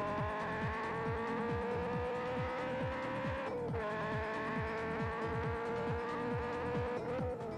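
Ferrari F355 Challenge's 3.5-litre V8 at high revs under hard acceleration: a high, steady buzzing note that climbs slightly. It is broken twice by quick upshifts, once midway and once near the end, each with a brief dip in pitch.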